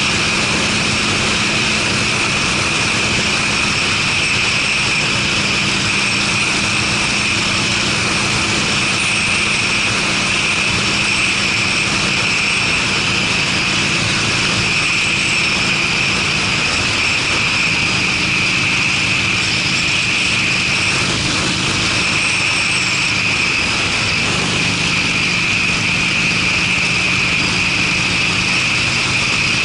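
Harley-Davidson Sportster's V-twin running steadily through aftermarket Screamin' Eagle mufflers while the motorcycle is ridden at a constant speed.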